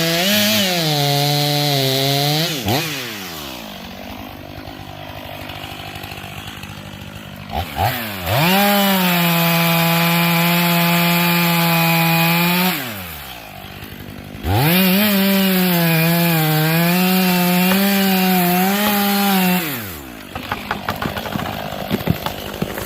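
Two-stroke chainsaw cutting wood: revved to full throttle three times, its pitch sagging a little under load during each cut, and dropping back to a quieter idle between cuts. A few sharp knocks follow near the end.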